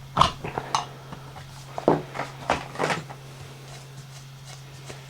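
Metal clanks and clinks of hand tools on a scooter brake hub as its nut is worked off: about five sharp knocks in the first three seconds, then a few faint ticks. A steady low hum runs underneath.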